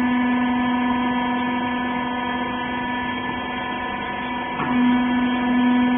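Hydraulic power unit of a horizontal bagging baler running with a steady electric hum. About four and a half seconds in, the hum dips briefly with a short click, then carries on.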